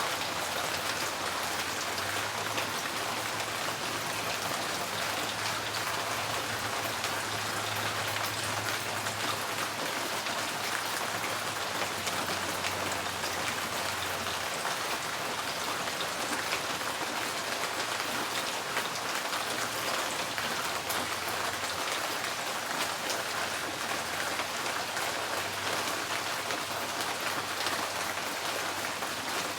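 Steady rain falling on a tin porch roof: a dense, even patter of drops on the metal.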